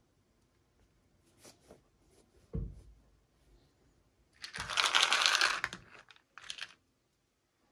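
Toy packaging being handled: a soft thump, then about a second and a half of loud rustling and crinkling, and a short second rustle.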